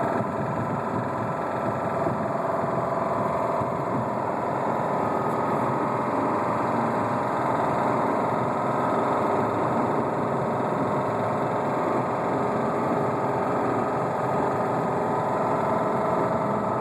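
2007 Subaru Outback's engine running at freeway speed with a steady rapid knock, mixed with road noise inside the cabin. This is the rod knock of a spun connecting-rod bearing.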